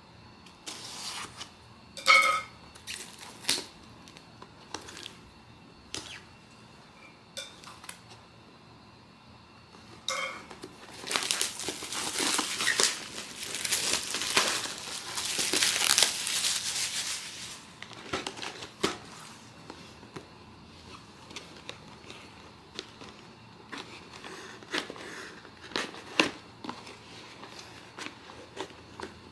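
Blind box packaging being handled: scattered taps and clicks, a sharp clink about two seconds in, and a wrapper crinkling for several seconds in the middle.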